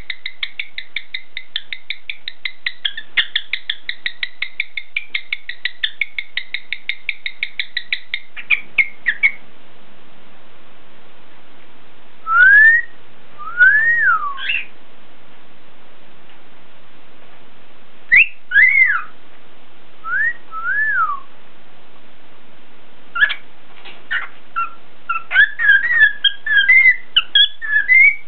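Cockatiel whistling: a fast run of repeated chirps for the first eight seconds or so, then separate whistled notes that rise and fall, and busier warbling chatter near the end.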